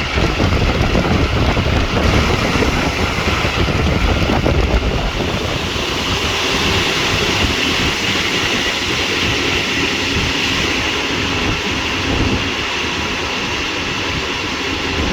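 Regional passenger train running, heard from on board: a steady rumble and rush of running noise, heaviest in the first five seconds and smoother after.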